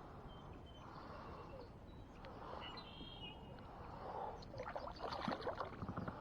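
Water splashing and sloshing, ending in a quick, busier run of splashes over the last second and a half. A few short, high bird calls sound in the first half.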